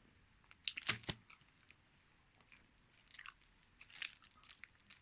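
A stick of hard mint seaside rock candy bitten with a loud crunch about a second in, then crunched and chewed with scattered sharp cracking clicks.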